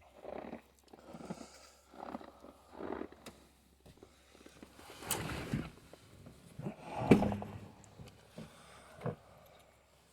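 Footsteps with handling noises: a run of irregular crunches and soft thumps, with one louder knock about seven seconds in.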